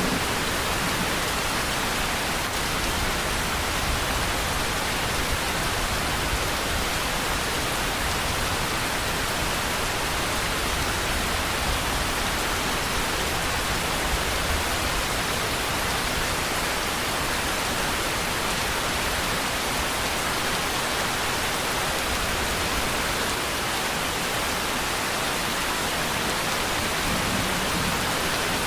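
Steady rain falling in an even, unbroken wash of noise, with no change in strength.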